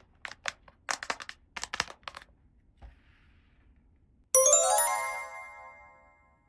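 Small crisp clicks and taps of plastic toy pieces being handled, then about four seconds in a bright chime jingle: a quick run of ringing notes that fades out over about two seconds.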